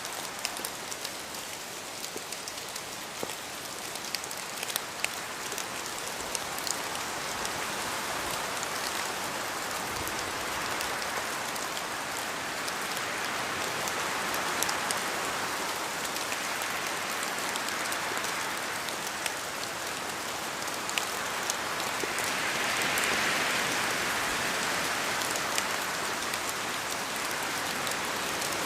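Steady rain falling, an even hiss with scattered sharp drips and drop impacts, swelling slightly in intensity at times.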